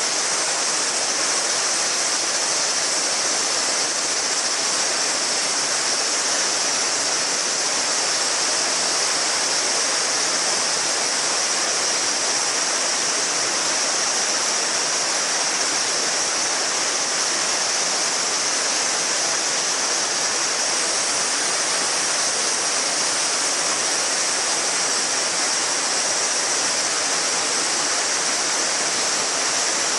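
Shallow river water babbling steadily over stones, with a continuous chorus of summer cicadas as a steady high shrill layer over it.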